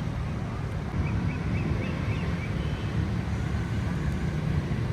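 Steady low rumble of a motor vehicle, with some wind noise. A quick run of five or six faint high chirps comes between about one and two and a half seconds in.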